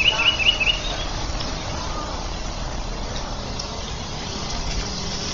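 A small bird's quick run of repeated chirps, ending under a second in, over a steady rushing noise.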